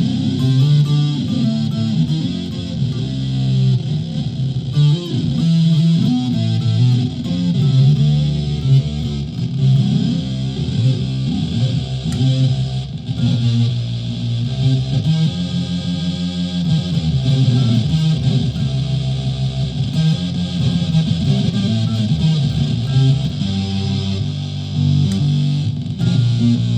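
Flight Centurion solid-body electric ukulele played through a clone effects pedal with distortion, heard through a PA speaker. It plays a continuous run of riffs and sustained notes, with a steady hiss from the effects underneath.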